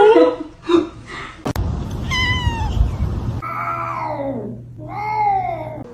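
A cat meowing several times, long drawn-out meows that fall in pitch. A sharp click comes about a second and a half in, with a low rumbling noise under the first meows.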